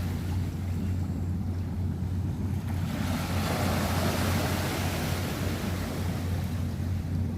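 River waves slapping and washing against the bank, the wash swelling from about three seconds in, over a steady low rumble.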